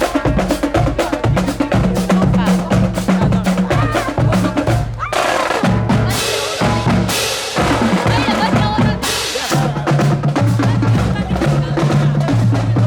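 School marching band playing: brass with a driving snare and bass drum beat, the sound growing brighter and fuller for a few seconds about five seconds in.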